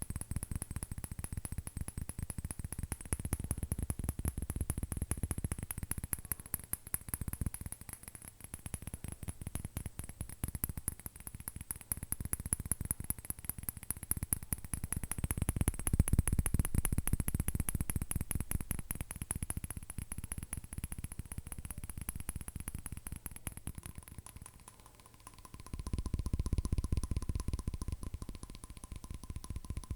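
Fingernails tapping very fast on a surface, a dense run of clicks that swells and eases, with a brief lull near the end. A thin steady ringing tone comes in over the last few seconds.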